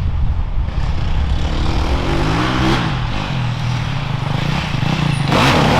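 Off-road enduro motorcycle engines running on a trail, revving up and down, with a louder rush of noise near the end.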